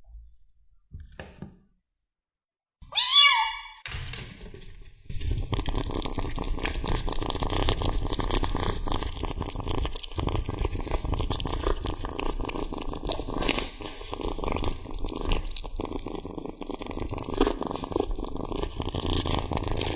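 A cat meows once about three seconds in. From about five seconds on comes continuous close-up chewing, with wet clicking and tearing as it eats raw tomahawk steak.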